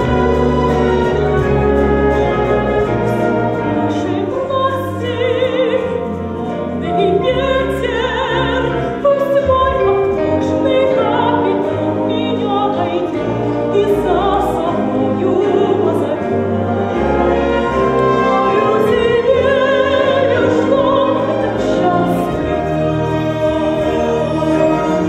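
An orchestra playing, joined about four seconds in by a female soprano singing in an operatic style with a wide vibrato: a song from a stage musical.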